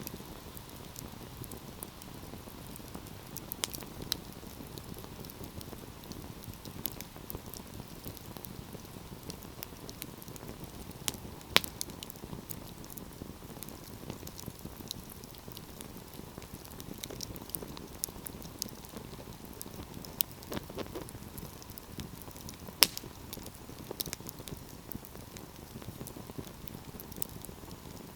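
Wood fire burning, with a steady low rush under scattered sharp crackles and pops. Two pops stand out as the loudest, about eleven seconds in and again about twenty-three seconds in.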